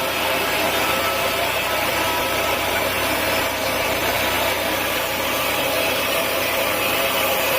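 Sawmill saw running steadily through wood: a constant machine whine of several steady tones over the rasp of the blade cutting.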